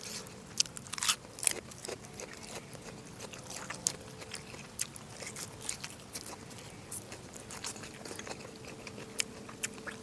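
Someone eating up close, with irregular sharp, wet mouth clicks and smacks of chewing and biting.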